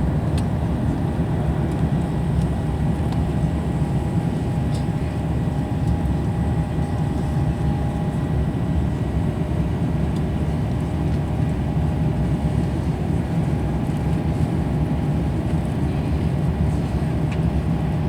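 Airbus A350-900 cabin noise heard from an economy seat: a steady, low drone of engines and airflow, with a faint, steady whine above it.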